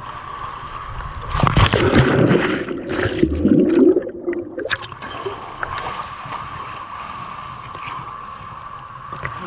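Water splashing and gurgling right at a camera in a waterproof case, loud between about one and four seconds in and muffled for a moment near four seconds, then settling to lighter lapping water.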